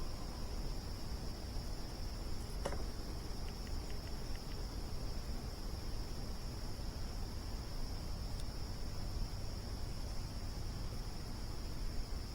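Crickets chirping in a steady, continuous high chorus over a low even background noise, with a single sharp crackle from the campfire about three seconds in and a few faint ticks after it.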